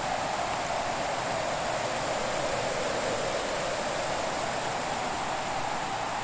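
Fireplace ambience: a steady, even rushing noise with hardly any crackling.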